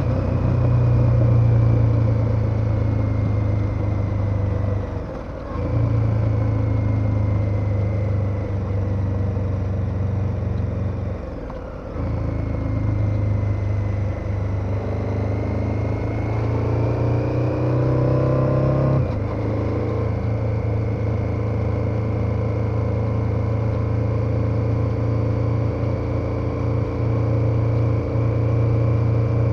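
KTM 1290 Super Adventure's V-twin engine pulling steadily on the road. It briefly drops off twice, about 5 and 12 seconds in, then the revs climb for a few seconds before falling back near 19 seconds.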